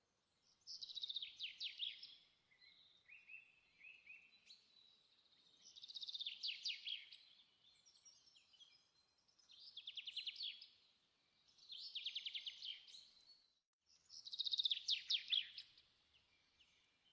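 A songbird singing five short trilled phrases, each about a second and a half long, with pauses of a second or two between them and softer notes after the first.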